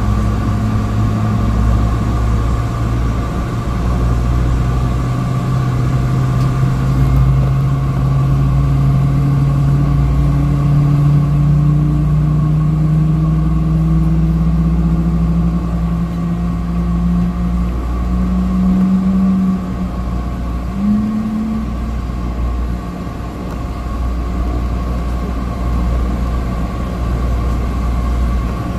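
Cessna 208 Caravan's PT6A turboprop engine and propeller droning inside the cabin, with a low rumble and a steady high whine; the drone's pitch climbs slowly for most of the time, then shifts a few times.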